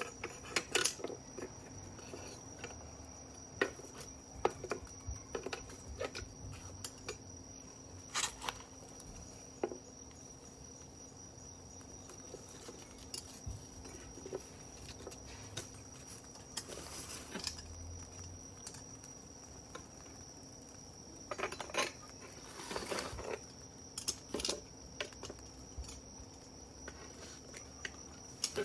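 Wood fire crackling, with irregular sharp pops and snaps, some in quick clusters. A steady high insect trill runs underneath.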